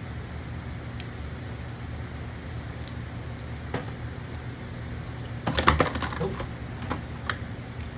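Hard plastic Beyblade tops and stadium parts being handled: a few light clicks, then a burst of clattering knocks about five and a half seconds in and a few more near the end, over a steady low hum.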